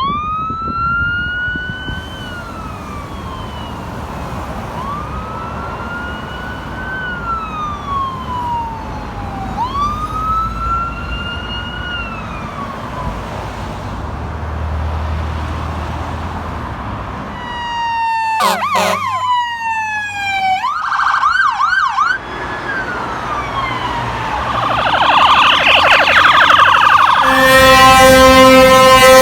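Fire engine responding with its electronic siren on a slow wail, rising and falling every few seconds over a low diesel rumble, then switching to rapid yelp sweeps about two-thirds of the way in. Near the end a loud steady blast joins it, likely the truck's air horn.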